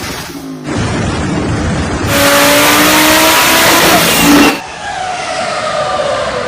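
High-performance car engines revving hard in a series of short, abruptly cut clips, their pitch climbing in each. From about two to four and a half seconds in, a louder stretch of hiss sits over the rising engine note.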